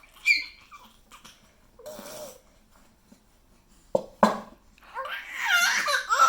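A baby's excited vocalising: a short high squeal at the start, a lower babble about two seconds in, and a longer high, wavering squealing laugh near the end.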